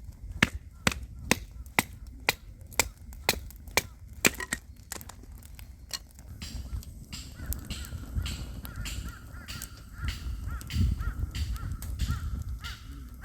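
Chopping: a run of sharp, evenly spaced knocks, about two a second, for the first five seconds or so. After that comes a softer, irregular mix of rustling and knocking with a faint thin steady tone.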